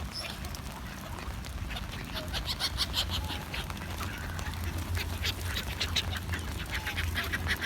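A group of ducks quacking in many short, rapid calls while being fed bread, over a steady low rumble.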